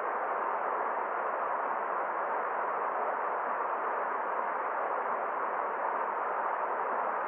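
Forest stream flowing, a steady, even rush of water with no splashes or drips standing out and no high hiss.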